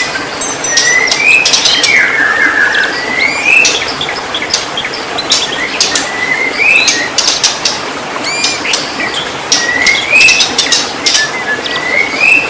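White-rumped shama singing: a rising whistled phrase repeated about every two to three seconds, mixed with short high notes and many sharp clicks.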